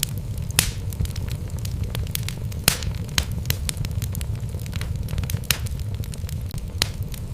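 Wood logs burning in a fireplace: a steady low rumble of flame with irregular sharp crackles and pops, a few louder pops standing out.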